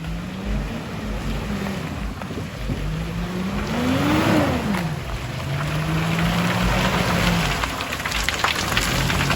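A 4x4 vehicle's engine revving up and easing off as it drives the trail: the pitch climbs to a peak about four seconds in, falls away quickly, then holds steady. A few sharp knocks come near the end.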